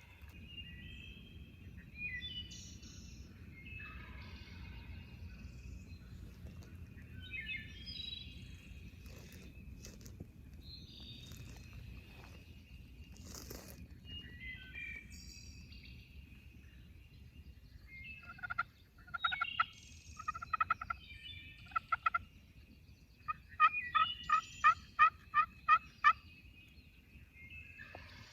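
Wild turkey calling loudly: a few calls, then a rapid run of about eight evenly spaced notes. Small songbirds chirp faintly before it.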